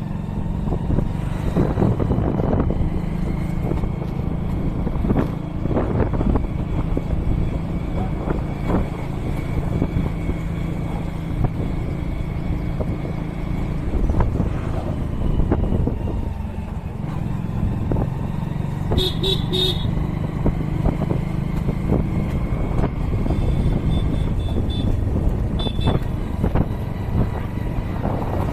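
Motorcycle engine running steadily under way, with road noise. A vehicle horn gives short beeps about two-thirds of the way in, and fainter ones again near the end.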